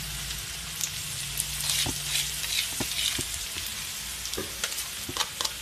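Sliced onion and freshly pounded garlic, shallot and candlenut paste sizzling and crackling in hot oil in a wok, with scattered sharp ticks as a metal ladle stirs and taps the pan.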